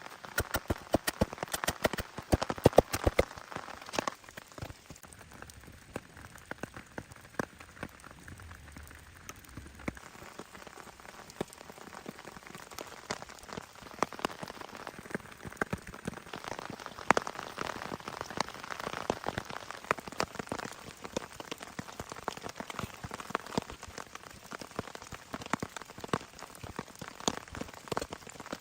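Rain falling, heard as a steady spread of scattered drop ticks, thickest and loudest in the first few seconds and again past the middle.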